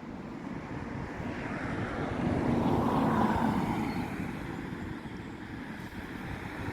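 A passing vehicle's rumbling noise, swelling to its loudest about three seconds in and then fading.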